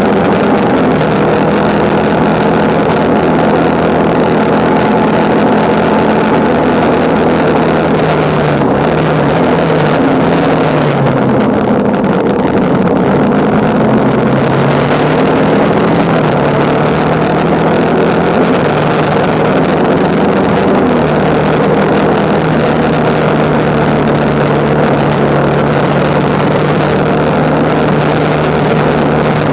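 Motorcycle engine running under way, with wind rushing past the microphone. The engine note drops about eight to twelve seconds in as it slows, then rises again and holds steady.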